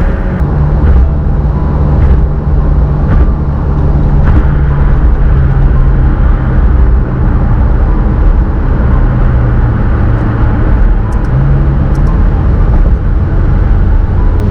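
McLaren 750S's twin-turbo V8 running while the car drives at a steady pace, with road and tyre noise under a low rumble; the engine note holds steady, dipping and rising slightly a few times.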